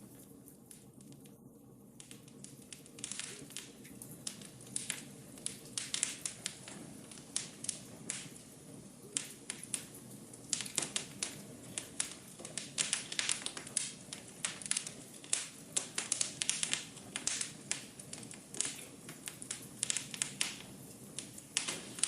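Wood fire crackling in a fireplace: irregular sharp pops and snaps over a steady low rumble of flame. The pops are sparse at first and come thick and fast from about ten seconds in.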